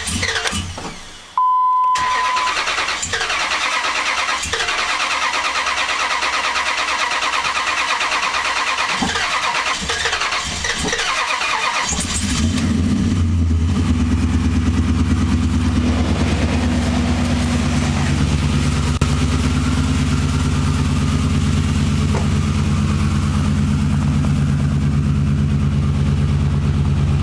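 2004 Dodge Ram's starter cranking the engine for about ten seconds before it catches about twelve seconds in and settles into a steady idle: a long, hard start from a truck that does not want to start.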